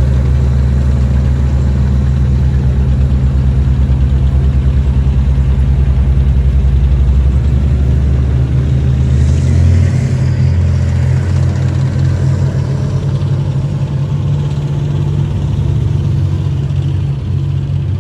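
A large vehicle engine running steadily at a low pitch, its tone shifting about eight to ten seconds in.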